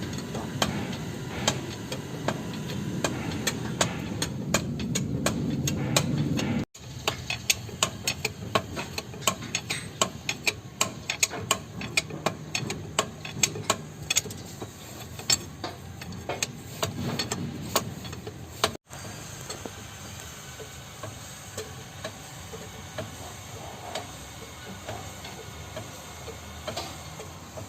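Rapid, irregular sharp clicking and ticking over a low hum, the clicks thickest in the middle and thinning toward the end.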